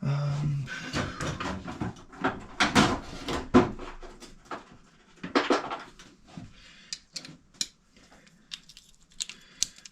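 Hand tools being handled: a socket wrench and sockets clinking and knocking as a socket is picked out and fitted. The knocks come thick in the first half, loudest a few seconds in, then thin to scattered clicks.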